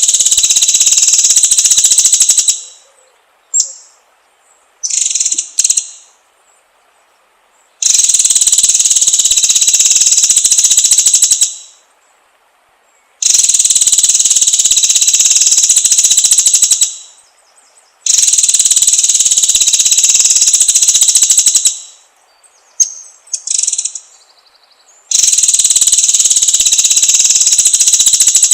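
White-rumped shama (murai batu) singing: five long, rapid rolling trills of about four seconds each, with short chirped notes in the gaps between them.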